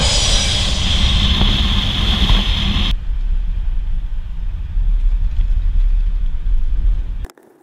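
Wind and road noise from riding in an open-sided vehicle on a highway: a heavy steady low rumble with vehicle drone, and a steady high hiss over the first three seconds. It cuts off suddenly near the end.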